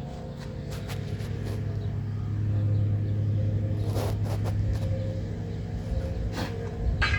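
A steady low motor hum that swells around the middle and eases off, with scattered small clicks and rustles of hands digging through soil for potatoes.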